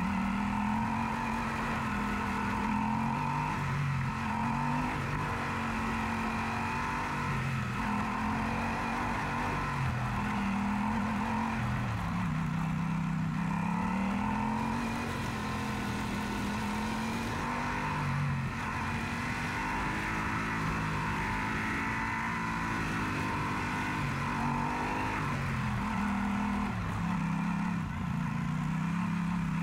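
Yamaha Super Ténéré's parallel-twin engine running while riding, its pitch rising and falling gently several times as the revs change.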